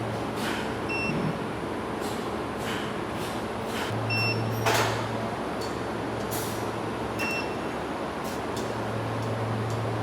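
Mini induction melting furnace running with a steady rushing machine noise and a low hum that swells and fades, short high beeps about every three seconds, and scattered brief hisses.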